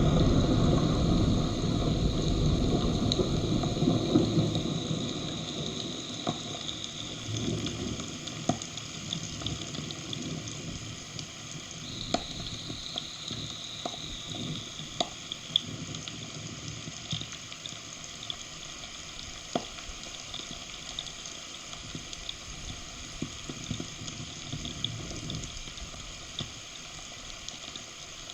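Heavy rain with a roll of thunder rumbling and dying away over the first several seconds, then a steady rain hiss with scattered sharp ticks of drops striking close by.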